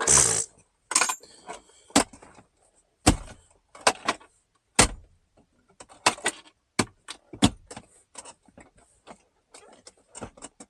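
Sharp plastic clicks and knocks, roughly one a second, from a truck's jump-seat center console lid and its contents being handled, opening with a brief rustling clatter. The knocks fade into lighter ticks over the last few seconds.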